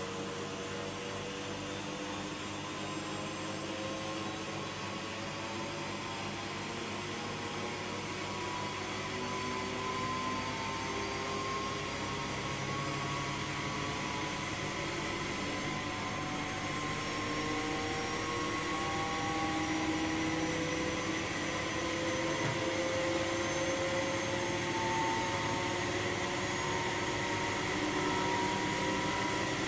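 Washing machine's drum and motor speeding up, a steady whine over a rushing hiss with several tones slowly rising in pitch and gradually getting louder.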